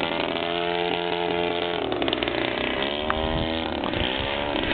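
Rear-carburettor DLE-30 single-cylinder two-stroke gas engine of a radio-controlled aerobatic plane in flight, on its first tank of fuel. Its pitch holds steady, drops about two seconds in, climbs again and drops once more as the plane changes throttle or passes by.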